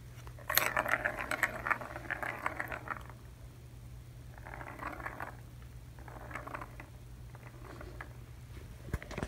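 Plastic balls rattling and rolling around the tracks of a kitten's ball tower toy as kittens bat at it. A quick run of clicking for the first few seconds, then two shorter bursts.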